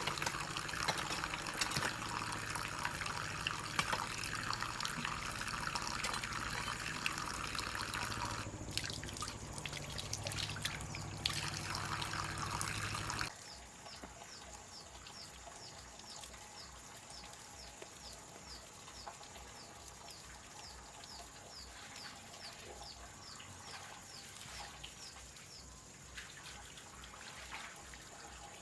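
Water running and splashing from a bamboo pipe for about thirteen seconds. It then cuts abruptly to a quieter trickle, with a high chirp repeating about twice a second for a while.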